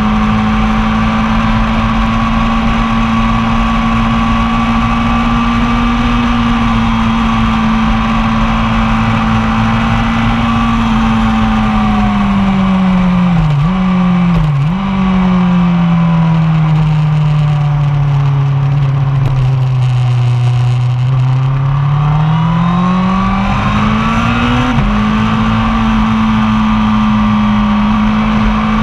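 1999 Yamaha R1's inline-four engine running hard on track. Its pitch falls as the bike slows, with two quick dips as it is shifted down. It then climbs back up under acceleration, drops once abruptly at a gear change about three-quarters of the way through, and holds high again.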